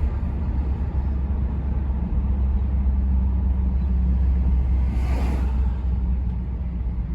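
Steady low rumble of engine and road inside the cabin of a 1971 Mercury Marquis Brougham under way, with a brief rushing hiss that swells and fades about five seconds in.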